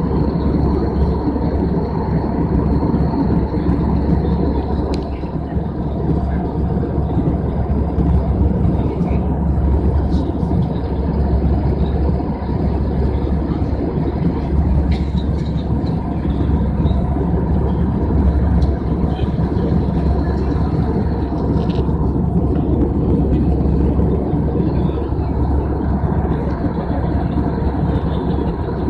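Airliner cabin noise in flight: a steady, loud drone of engines and airflow, heaviest in the low end, with a thin high whine running through it.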